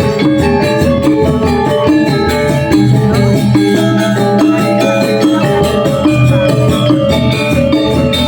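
Balinese gamelan gong kebyar ensemble playing a tabuh alus piece: bronze metallophones strike dense rhythmic patterns of ringing tones over a deep sustained gong hum.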